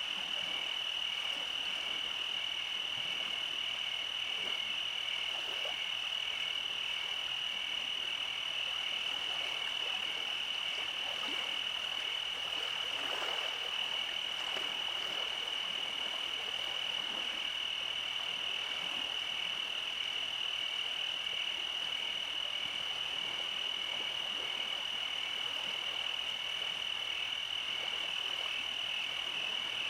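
Night chorus of frogs: a steady, unbroken high-pitched trill with a faster pulsing call beneath it, over a soft hiss.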